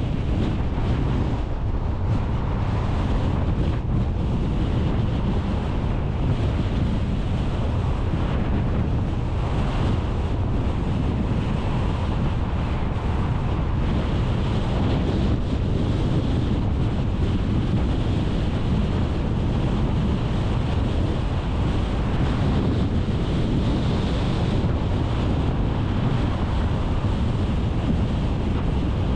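Steady rumble of road and wind noise from a car driving along, heaviest at the low end, with no breaks or distinct events.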